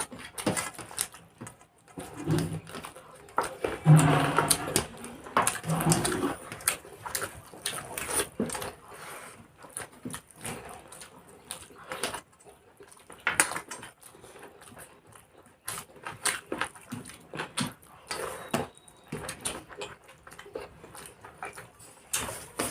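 Eating race of rice and chicken: chewing, lip-smacking and small clicks of food and plate, with a few short grunts from a full mouth between about two and six seconds in.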